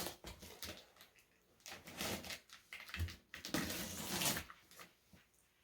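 Cardboard shipping box being opened: packing tape ripped and cardboard flaps rustling and scraping in several irregular bursts, the longest about three and a half seconds in.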